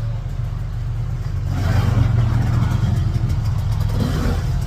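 Motor vehicle running at a steady speed: a low, even engine drone with road and wind rush that swells about a second and a half in.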